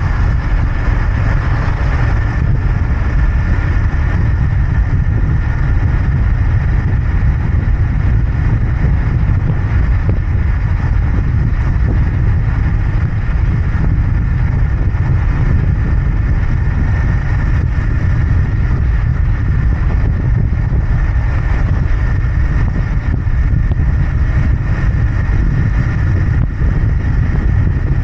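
Royal Enfield Interceptor 650's parallel-twin engine and exhaust running steadily while riding, a loud, even low rumble with no marked revving.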